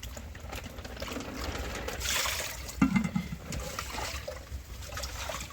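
Water trickling and splashing, with a swell of splashing about two seconds in. Scattered small knocks run through it, and a sharper knock comes near three seconds.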